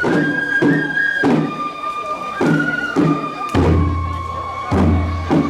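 Japanese festival music: a bamboo flute holding long notes that step down in pitch, over drum strokes about twice a second. Two deep booming drum hits land near the end.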